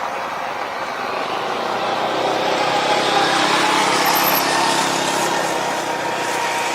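Aircraft engine noise as a plane passes close by: a loud rushing sound with a steady whine in it, building to a peak about halfway through and then easing.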